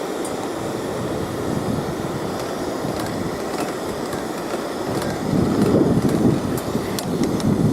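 Strong wind buffeting the microphone, a steady rumbling noise that gusts louder about five seconds in, with a few faint clicks.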